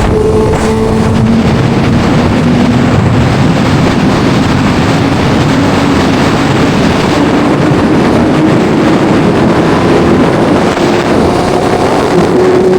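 Suzuki GSX-R600 inline-four engine running at a steady cruise, its pitch drifting slowly up and down, under loud wind rush on the microphone.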